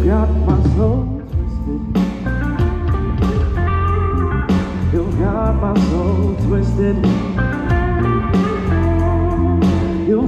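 Live band playing an instrumental break: electric guitar lead with bending notes over bass and drums.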